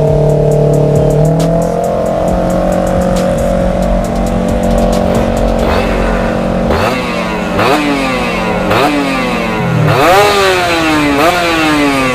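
Two-stroke motorcycle engine with a racing expansion-chamber exhaust, running at a steady speed, then revved in repeated quick throttle blips about once a second from about halfway through.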